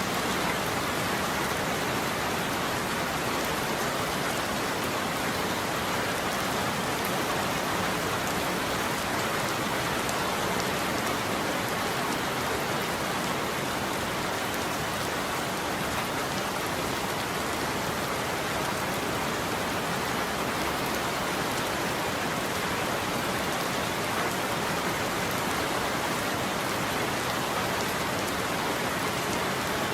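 Steady rain falling on a roof: an even, unbroken hiss with no thunder.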